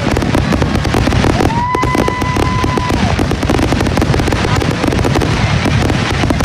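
Fireworks going off in a rapid, dense barrage of bangs and crackling over a continuous low rumble. A steady whistle sounds about a second and a half in and holds for about a second and a half.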